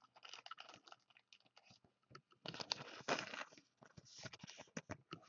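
Faint handling of trading cards and their plastic packaging: scattered light clicks and short rustles, with a longer rustle about halfway through.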